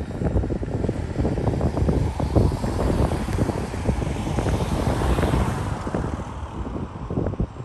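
Freight train wagons rumbling and clattering as they roll away, with a car passing close by on the road, its tyre hiss swelling and fading between about three and seven seconds in.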